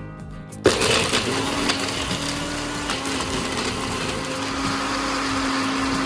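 Electric kitchen blender motor switched on about half a second in, then running steadily at a constant speed with a low, even hum.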